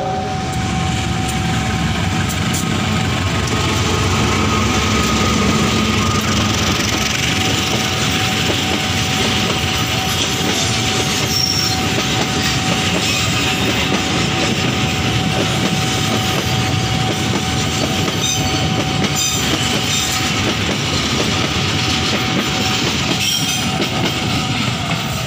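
Train running past on the rails, a steady loud rumble of wheels with some clattering, and a thin steady high tone that fades out near the end.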